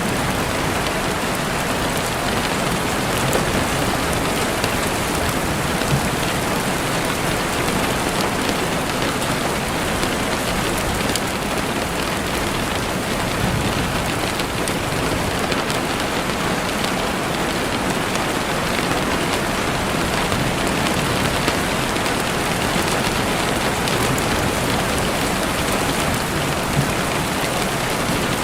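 Steady rain falling in woods, an even hiss of drops, with a campfire crackling in a few scattered faint pops.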